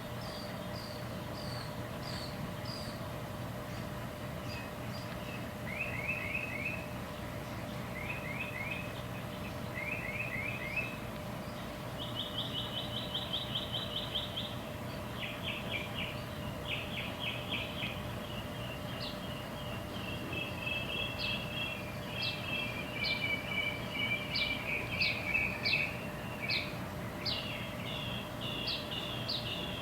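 A songbird singing a varied series of repeated phrases: quick high chirps, then short trills repeated in threes, then a fast rattling trill, growing busier in the second half.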